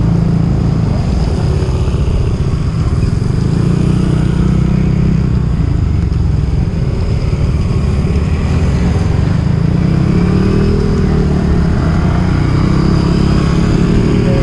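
Motorcycle engine running steadily while climbing uphill.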